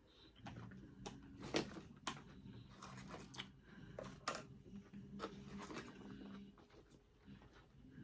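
Close-up eating sounds: chewing with sharp, irregular wet mouth clicks and smacks, over a faint steady low hum.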